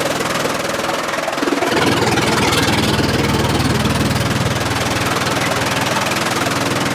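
Engine-driven sawmill machinery running steadily with a low hum. About a second and a half in, a fuller, louder rumble sets in for roughly three seconds, then eases back.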